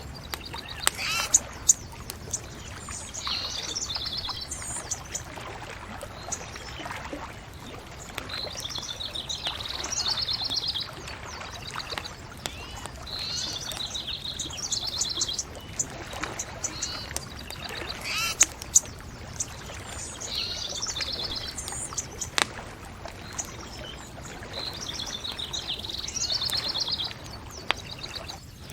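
Songbirds singing in short repeated trilling phrases every few seconds, with sharp crackles and pops from a bonfire now and then over a low steady rumble.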